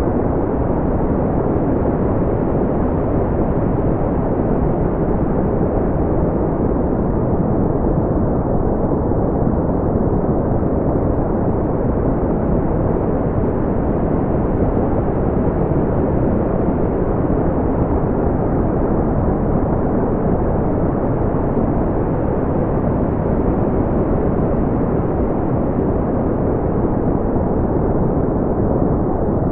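Smoothed brown noise: a steady, deep rushing hiss with its weight in the low end and almost nothing above the treble, unchanging throughout.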